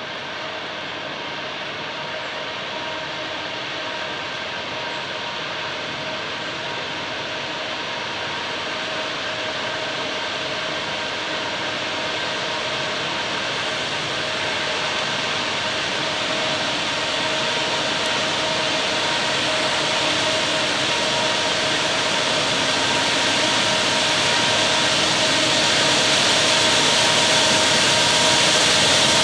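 A train on the rails, its steady rushing rumble of wheels on track growing gradually louder as it approaches, with a faint steady whine over it.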